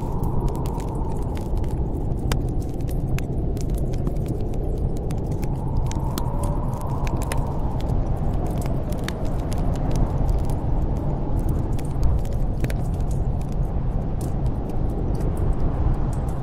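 Snowstorm wind rushing in a steady low roar that swells and eases in slow gusts, with a wood fire crackling in many scattered sharp pops and clicks.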